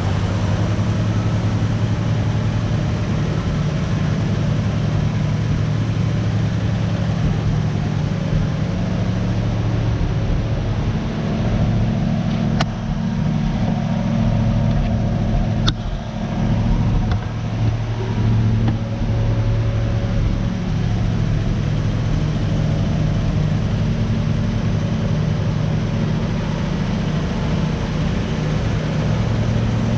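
1968 Oldsmobile 442's 400 cubic-inch V8 idling steadily, with a couple of sharp clicks and a brief unsteady patch midway.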